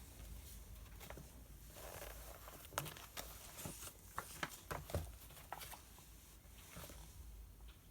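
Quiet desk sounds of studying: soft paper rustling, with a run of small sharp taps and clicks on the desk in the middle.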